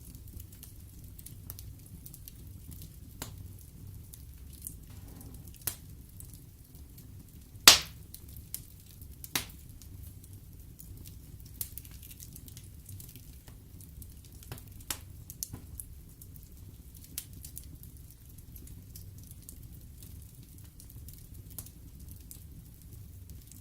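Wood logs burning in a fireplace: a steady low rumble of the flames with scattered sharp crackles and pops, the loudest pop about eight seconds in.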